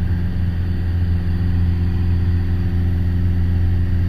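Piper Warrior's four-cylinder Lycoming O-320 engine and propeller droning steadily on the approach, a constant low hum with no change in pitch.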